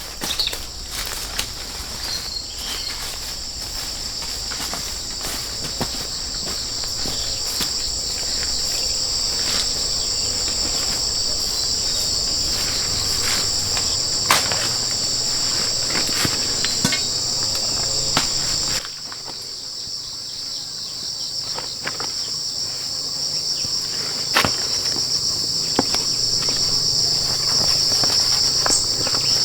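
A loud, steady, high-pitched chorus of insects buzzing without a break, with scattered sharp knocks now and then.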